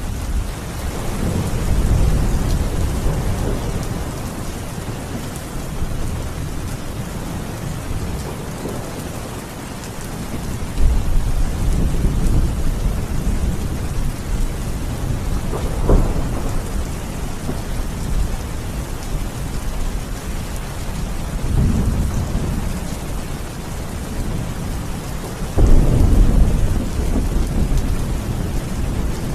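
Steady rain with rolling thunder: low rumbles swell and fade several times, with a sharper crack about sixteen seconds in and a loud rumble that starts suddenly near the end.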